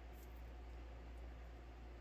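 Quiet room tone: a steady low hum under a faint hiss, with a couple of faint light ticks shortly after the start.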